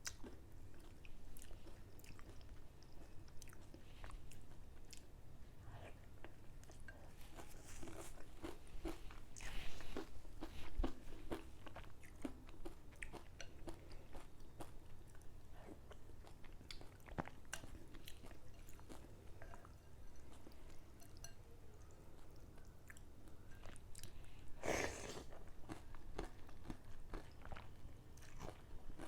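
Close-miked eating of mohinga, Myanmar rice-noodle fish soup: chewing and biting with many short crisp clicks. About ten seconds in and again near twenty-five seconds comes a longer, louder noisy sound.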